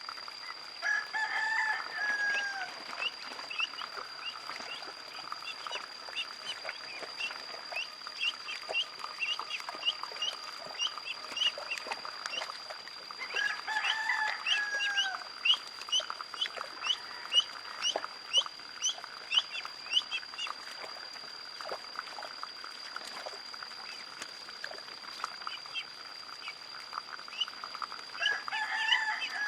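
Ducklings peeping rapidly in short, repeated chirps. A longer bird call that falls in pitch at its end comes three times, about thirteen seconds apart, over a steady high-pitched tone.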